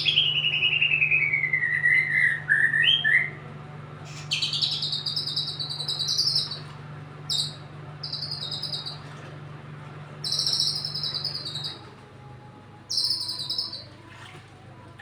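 White-rumped shama (murai batu) singing: a long, wavering whistle that falls in pitch, then a string of buzzy, rattling phrases about a second long, with short pauses between them.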